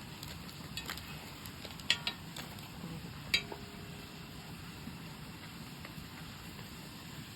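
Eating utensils and dishes clinking a few times, one clink about three seconds in ringing briefly, over a steady low hum.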